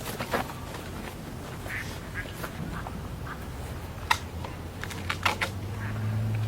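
Ducks quacking in short scattered calls, over a low steady hum that grows louder near the end.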